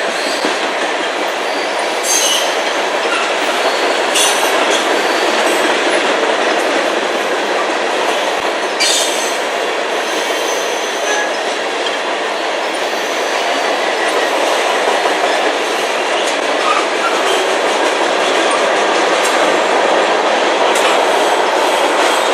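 Freight cars of a manifest train rolling past: a steady loud rumble of wheels on rail, with a few sharp clanks and brief faint wheel squeal.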